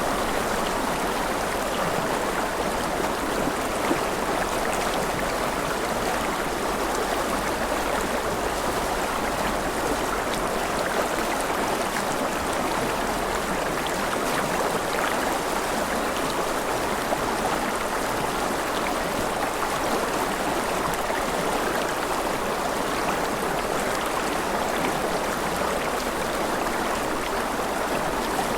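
Steady, unbroken rush of running water, with faint fine ticks scattered over it.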